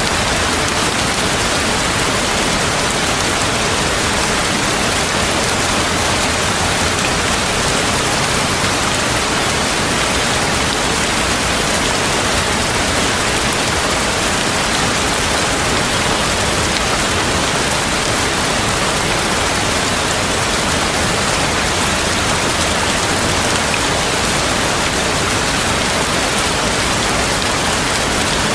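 Steady heavy rain, an even hiss of water falling without let-up.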